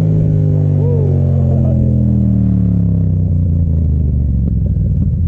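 Yamaha FZ-07's parallel-twin engine, its revs falling steadily over about four seconds as the throttle is rolled off, then running at a steady lower speed near the end.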